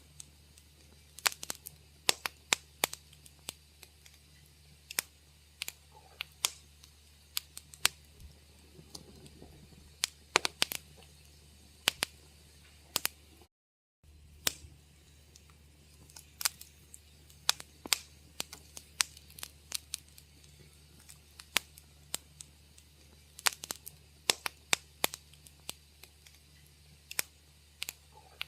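Wood fire crackling in a fireplace: irregular sharp pops and snaps, several a second at times, over a steady low hum. The sound drops out completely for about half a second near the middle.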